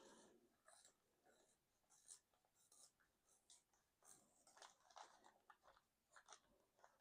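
Faint scratching of a colored pencil on sketchbook paper, in short irregular strokes that come thickest about four seconds in.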